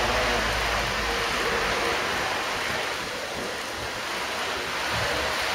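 Steady hiss-like background noise of a busy hall, with model trains running on the layout and faint distant voices.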